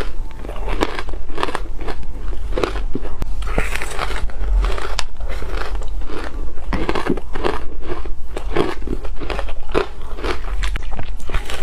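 Ice being bitten and crunched between the teeth close to the microphone, a few crunchy bites each second with chewing in between. A steady low hum runs underneath.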